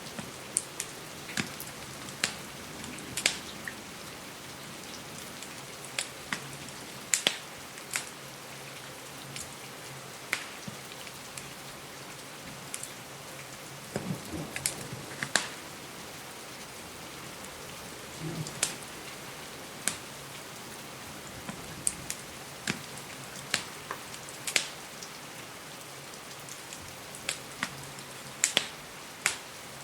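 Steady rain hiss with irregular sharp pops and crackles from a wood fire, roughly one every second or two.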